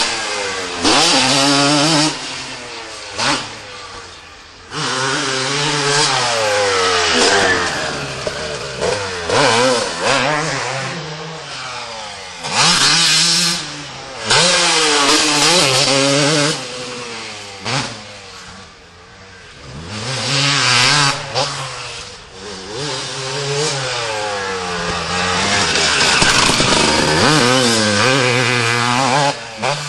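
Suzuki RM250 two-stroke motocross bike ridden around a track, its engine revving up, shifting and chopping off over and over. It fades away and comes back several times.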